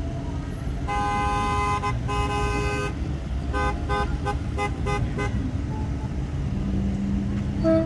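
Car horns honking: a long blast of about two seconds, then a quick run of short toots, then a lower horn held near the end, over the steady low rumble of vehicle engines and road noise.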